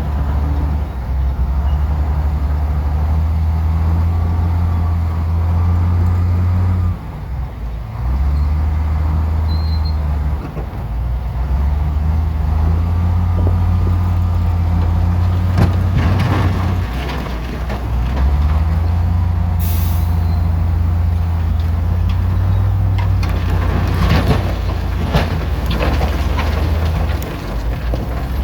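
Heavy diesel engine of a bulldozer working, its pitch stepping up and down as it takes load, with rock and soil clattering and scraping in places. A short air hiss sounds about twenty seconds in.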